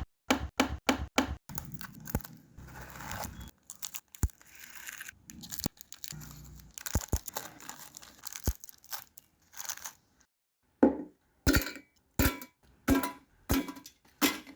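Packaging crinkling and tearing open with biscuits snapping and crunching, heard in quick edited cuts full of sharp clicks and rustles. Near the end, after a short silence, about six brief separate bursts follow.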